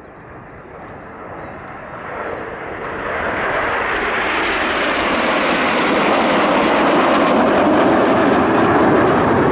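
Red Arrows BAE Hawk T1 jets flying a low pass. The jet noise grows steadily louder over several seconds, then holds loud.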